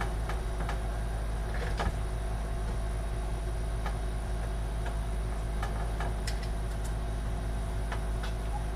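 Steady low electrical hum, with a few faint clicks and taps as a motherboard is worked into a PC case.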